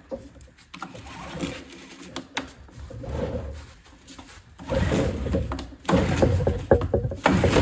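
Stihl BR600 backpack blower being pull-started after its engine replacement: clicks and rattles of handling, then two recoil-starter pulls, and the two-stroke engine catches and runs near the end.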